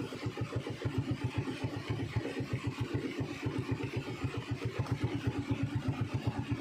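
Motorcycle engine idling steadily, with an even low pulse; it has been left running while its rider fishes.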